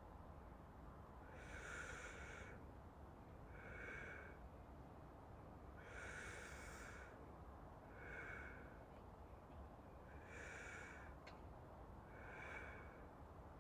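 A man breathing slowly and evenly, as if drifting off to sleep: three slow breaths in, each followed by a shorter breath out, about every four seconds.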